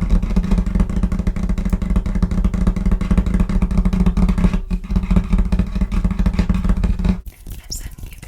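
Fast, aggressive fingertip tapping and scratching on a table surface, dense and continuous like a buzz, with a brief break about four and a half seconds in. It stops abruptly near the end.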